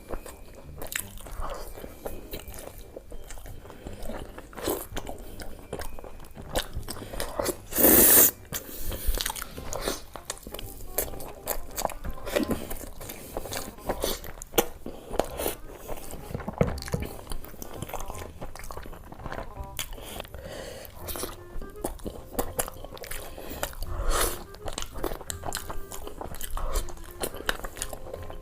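Close-miked eating sounds: crunchy bites and chewing, with many short crackles and one much louder burst about eight seconds in.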